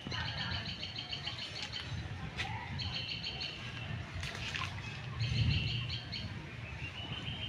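A songbird calling in short trains of rapid, evenly repeated chirps, three trains a couple of seconds apart, then a rising whistle near the end. A soft low rumble swells about halfway through.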